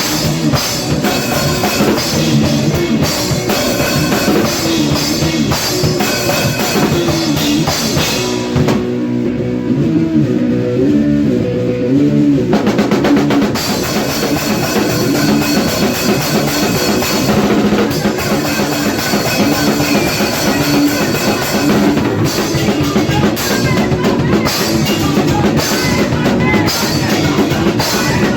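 Hardcore punk band in the 80s style playing: distorted electric guitar riffing over bass and a driving drum kit. About eight seconds in, the drums and cymbals drop out for some four seconds, leaving the guitar and bass riff alone, then the full band crashes back in.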